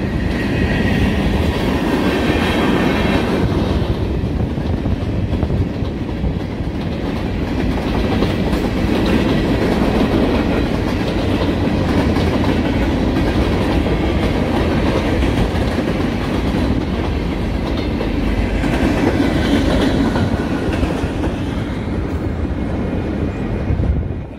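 A mixed freight train's cars rolling past close by: a steady rumble of steel wheels on rail with clickety-clack over the rail joints. It fades near the end as the last cars pass.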